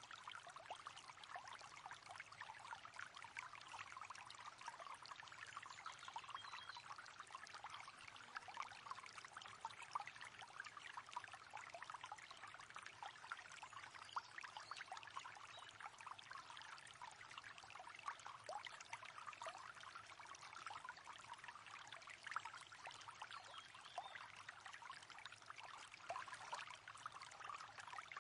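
Shallow river running over stones, a faint, steady babble and trickle of water.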